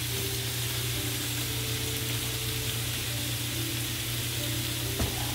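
Steady frying sizzle from the stovetop, where skinless chicken thighs cook without oil in their own rendered fat and nopal pads roast on a dry comal. A light knock comes near the end.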